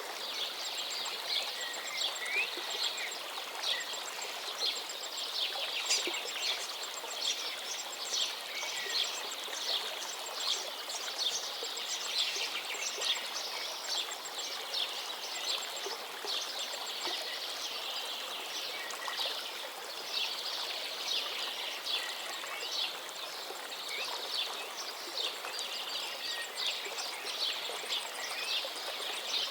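A chorus of songbirds chirping and trilling continuously over the steady rush of a gently flowing river.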